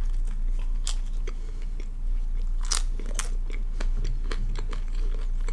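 Close-miked chewing of a mouthful of butter naan with paneer lababdar: irregular wet mouth clicks and smacks. The naan is very chewy.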